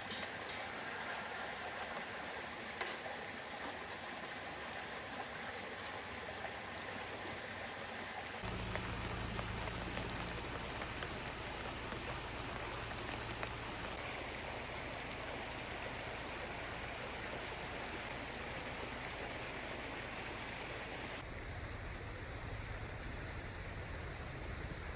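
Steady rain falling, an even hiss of drops. The sound changes abruptly about a third of the way in and again near the end, with a low rumble underneath after the first change.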